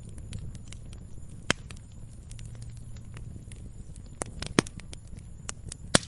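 Wood log fire burning: a low steady rumble with irregular small crackles and four louder sharp pops, the loudest near the end.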